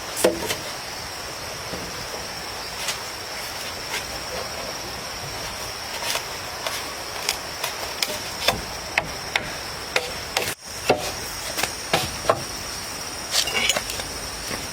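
Irregular sharp knocks, one every half second to a second, over a steady high insect drone.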